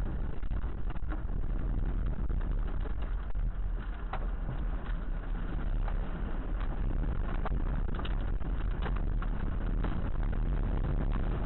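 Tornado wind roaring in a steady, deep rumble, with scattered sharp knocks and clatters throughout.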